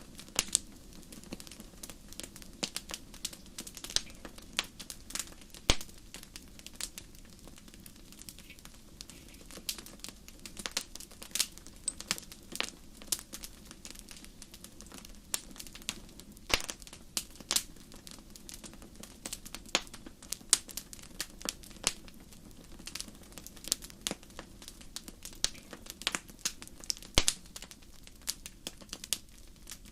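Wood fire crackling: irregular sharp pops and snaps, sometimes several in quick succession, over a soft steady background of burning.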